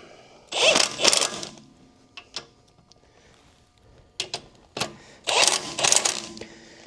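Ratchet wrench clicking in two quick bursts, about a second each, with a few single metallic clicks between them, as two bolts are run down.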